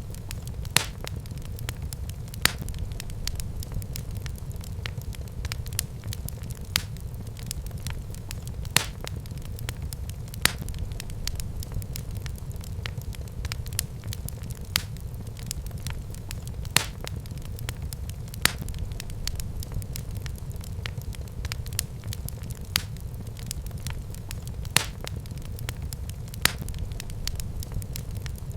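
Wood fire crackling in a fireplace: sharp pops every couple of seconds among many smaller crackles, over a steady low rumble of the flames.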